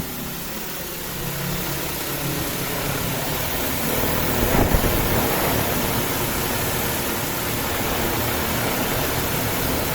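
DJI T50 agricultural spray drone's rotors running as it comes in to land: a steady, heavy whirring rush that grows louder over the first four seconds or so, then holds.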